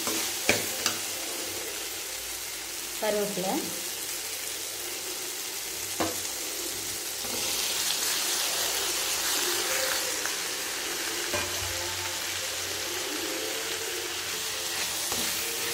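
Chopped onions and green chillies sizzling in hot oil in a metal kadai while a metal spatula scrapes and stirs them. About halfway through, chopped tomatoes drop into the pan and the sizzle grows louder for a couple of seconds.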